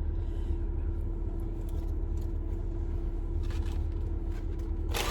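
Steady low rumble and hum inside a car's cabin, typical of the engine idling. There are faint rustles midway and a short, louder rustle near the end.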